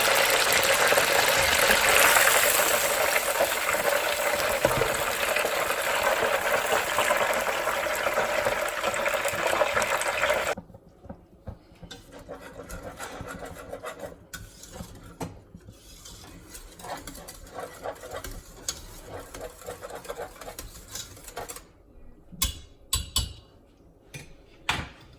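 A loud steady hiss cuts off abruptly about ten seconds in. After it come quieter stirring and scraping of a utensil in a pot, with scattered clicks and a few sharper knocks near the end.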